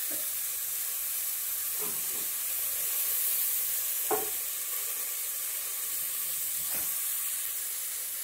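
Diced sweet onion sizzling in hot vegetable oil in a pot, a steady frying hiss, with a few faint knocks.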